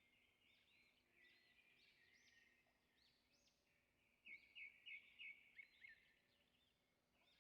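Faint birdsong: many small birds chirping in short arching notes, with a louder run of about six quick repeated notes a little past the middle.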